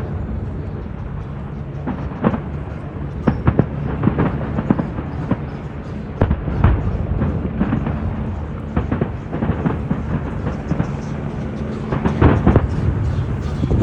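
Fireworks exploding in an irregular string of bangs, some single and some in quick clusters, with a loud cluster near the end, over the steady noise of crowd voices.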